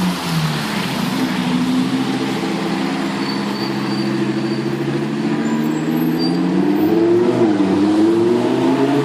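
Lamborghini Huracán Performante's naturally aspirated V10 running at low revs, its note climbing gently, dipping briefly about seven seconds in, then rising again and holding.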